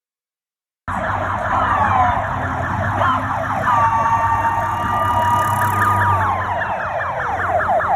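Several police car sirens sounding at once, starting suddenly about a second in. A fast, rapidly repeating yelp runs throughout under slower wails, and a steady tone is held for a couple of seconds in the middle.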